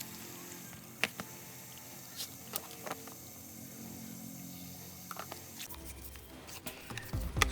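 Scattered light clicks and taps of small parts being handled, over faint background music.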